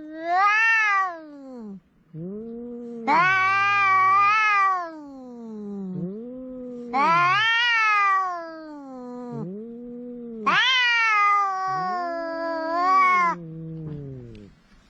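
Two cats yowling at each other in a quarrel: long drawn-out wavering calls, a higher-pitched voice in four long yowls and a lower voice answering in between and overlapping them.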